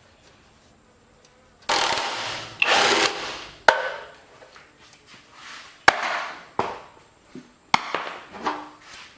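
Workshop hand-tool work: a couple of long rasping strokes, like scraping or filing, followed by shorter rubbing strokes and three sharp clicks.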